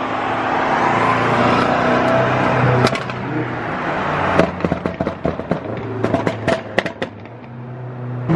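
BMW M5 accelerating hard with a loud rush of engine and wind noise. About three seconds in, the throttle comes off and a rapid string of sharp exhaust pops and crackles follows, dying down near the end.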